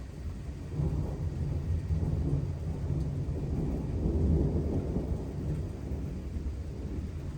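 Rolling thunder from an approaching thunderstorm: a low rumble that swells about a second in, peaks around the middle and slowly fades, with light rain just beginning.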